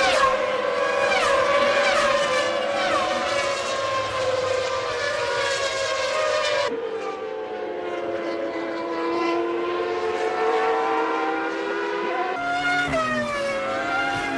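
Formula One car engines at high revs, several at once, their pitch sliding up and down as the cars accelerate, shift and pass. The sound changes abruptly about 7 seconds in and again about 12 seconds in.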